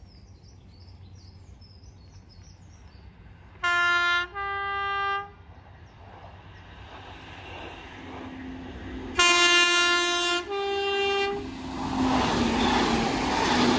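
Merseyrail PEP-type electric multiple unit sounding its two-note horn twice as it approaches at speed, each blast a lower note followed by a slightly higher one. After the second blast the rush of the train and a steady motor hum build up and are loudest near the end as it runs through the station.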